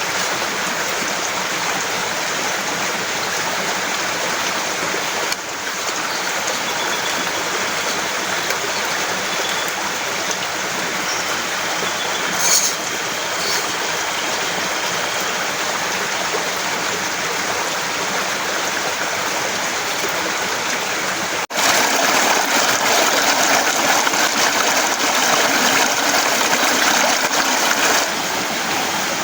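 Heavy rain falling steadily, a dense even hiss, with a brief knock about halfway through; about two-thirds in the rain suddenly gets louder, then eases back shortly before the end.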